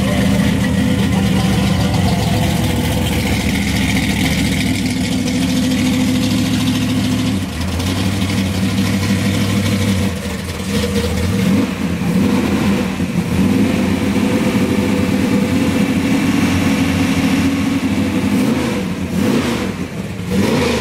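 Supercharged V8 of a Dodge Dart running at a steady idle, then revved several times in the second half, its pitch rising and falling with each blip.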